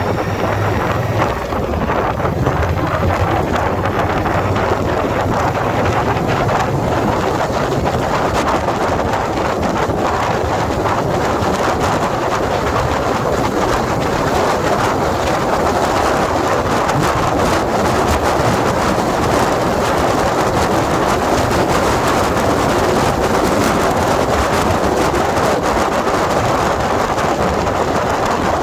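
Steady wind rush over the microphone of a motorcycle riding at speed, with the Indian Scout Bobber Twenty's V-twin engine running underneath.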